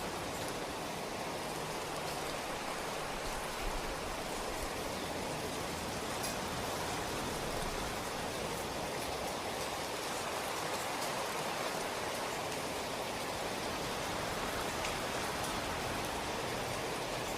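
Steady rainfall, an even hiss of rain with scattered small drops.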